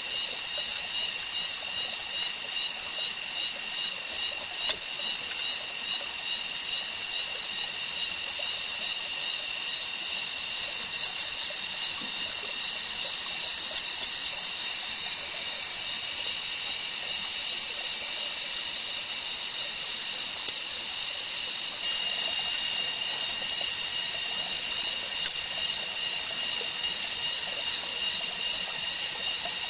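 Steady high-pitched drone of a rainforest insect chorus, with a fine pulsing texture. It is broken by a few sharp clicks or knocks.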